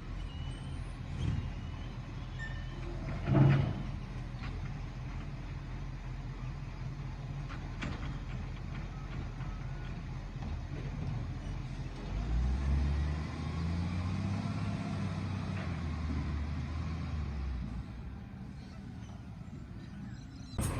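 Garbage truck's diesel engine running, with a single sharp thump about three seconds in. Past the middle the engine revs up for several seconds, then drops back to a lower running note.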